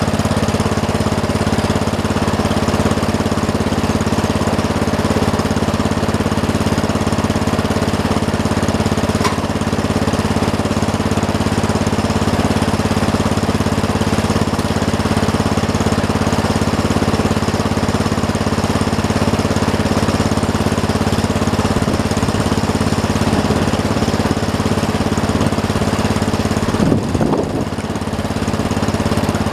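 A small engine running steadily at one constant speed, close by.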